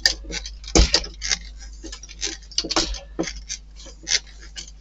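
Small parts of a model engine kit being handled and fitted on a workbench: irregular light clicks and taps, with one louder knock about a second in.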